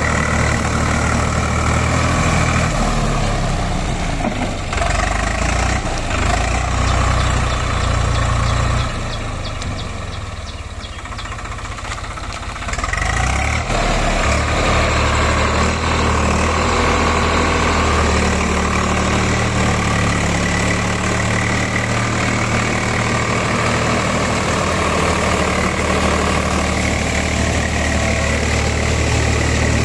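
Swaraj 744 XM tractor's three-cylinder diesel engine running steadily while ploughing. It drops quieter for about four seconds around nine seconds in, then picks back up.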